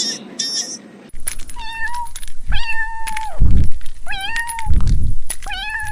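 A cat meowing over and over, about four drawn-out meows, with low bumps between them. In the first second there is high-pitched chirping, which cuts off abruptly.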